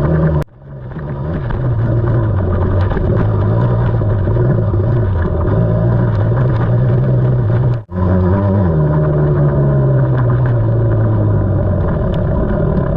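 KTM 300 two-stroke enduro dirt bike engine running under way on a trail, its note rising and falling with the throttle. The sound breaks off abruptly twice, about half a second in and near eight seconds, then comes straight back.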